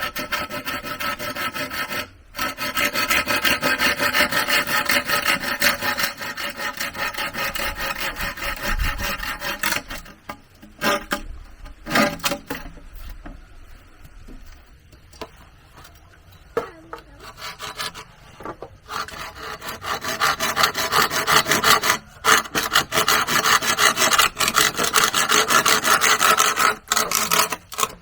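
Rapid rasping strokes of a hand tool working wood or bamboo, like sawing or scraping. The strokes stop for several seconds midway, with a few single knocks, then start again.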